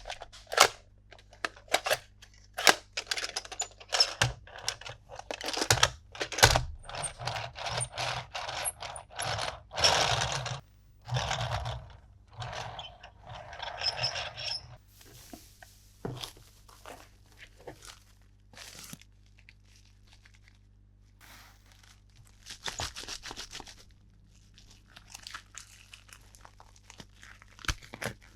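Toy packaging being opened by hand: plastic and cardboard crinkling and tearing, with clicks and scrapes. It is busiest in the first half, then thins to scattered clicks with one more short stretch of rustling later.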